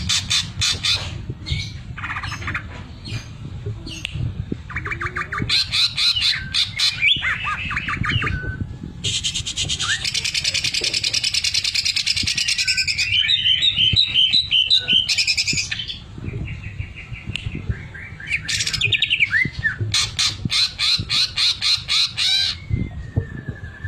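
Greater green leafbird (cucak ijo) singing a loud, varied song of rapid trills and chirped phrases. About nine seconds in it gives a long, fast, dense rattle, the 'sewing machine' (mesin jahit) imitation in its repertoire.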